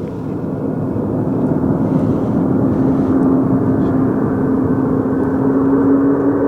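Jet airliner engines, the noise swelling steadily as the aircraft draws closer, with a steady droning whine running through it.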